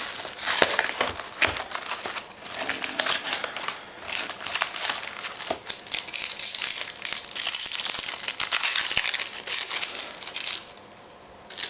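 Plastic wrapping of a card box and pack crinkling and tearing as they are opened by hand, an irregular stream of crackles and sharp snaps that dies down about a second before the end.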